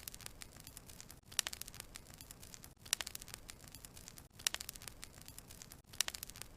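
Burning wood logs crackling: a sharp pop about every second and a half, each followed by a quick run of smaller crackles, over a faint hiss.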